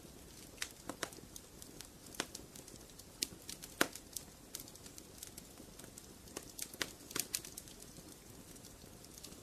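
Wood fire in a fireplace crackling: irregular sharp pops and snaps over a low steady hiss, the loudest pop about four seconds in.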